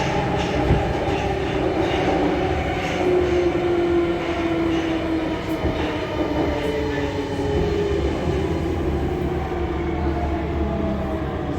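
Metro train running, with a steady rumble of wheels and a whining motor tone that slides slowly down in pitch, as when the train slows.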